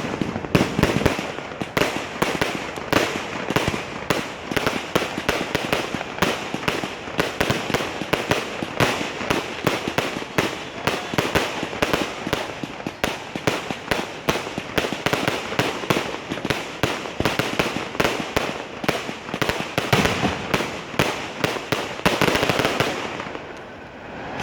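Fireworks going off in a dense, continuous barrage of bangs and crackles, many a second, easing briefly near the end.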